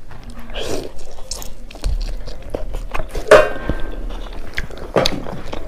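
Close-miked mouth sounds of a person biting and chewing a piece of spicy smoked pork: a dense run of wet smacks and clicks, with one louder smack a little past halfway.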